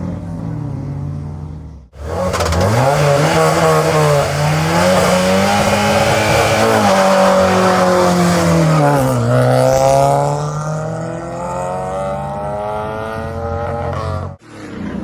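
Opel Corsa GSI rally car launching from a standing start: its four-cylinder engine revs up hard, drops in pitch about nine seconds in as it shifts up, then climbs again and fades as the car pulls away. In the first two seconds the Opel Kadett GTE rally car's engine is heard running before a sudden cut.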